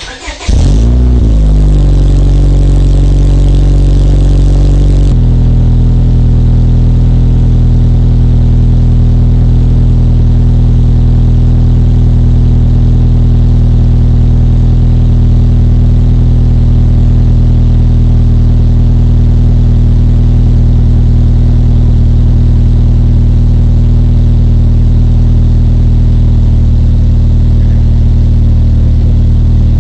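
2002 Honda Accord's 2.3-litre inline-four with a full Yonaka exhaust, Mugen exhaust manifold and AEM intake starting up. It catches right away with a brief flare, runs at a high idle, and about five seconds in the idle drops lower and holds steady.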